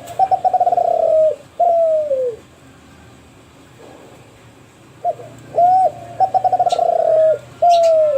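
Kelantan-strain spotted dove (derkuku) cooing: the end of one song phrase, then after a pause of about three seconds a full phrase. Each phrase is a couple of short notes, a rapid stuttering run of notes, and a long falling coo.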